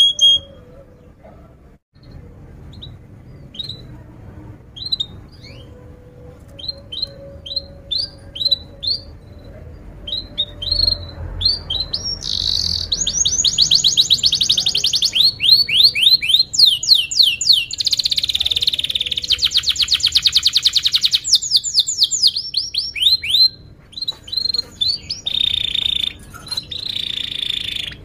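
Canary singing: scattered short chirps for the first ten seconds or so, then long, fast trills from about twelve seconds in.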